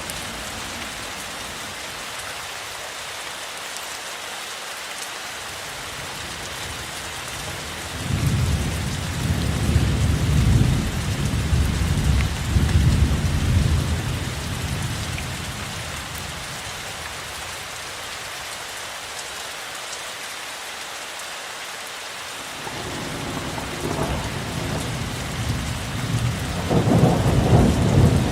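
Steady rain with low rolling thunder: one long rumble about eight seconds in that fades after several seconds, and a second that builds from a little past the twenty-second mark toward the end.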